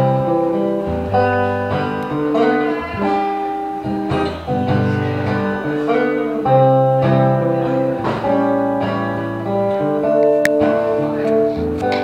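Acoustic guitar strummed through an instrumental break with no singing, the chords changing every second or two.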